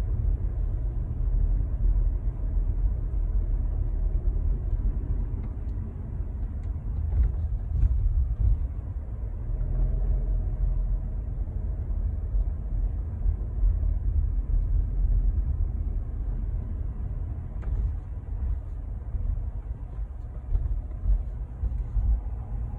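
Steady low rumble of a Skoda Kushaq's cabin with the engine and AC running, between the AC's periodic hisses; no hiss is heard.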